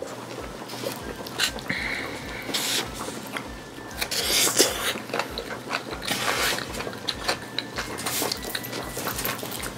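Close-miked chewing of chopped raw octopus: mouth smacks and short clicks, busiest and loudest from about four seconds in.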